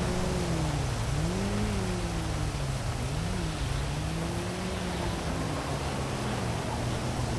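Heavy rain making a steady hiss over city traffic. Beneath it a vehicle engine hums, its pitch rising and falling several times.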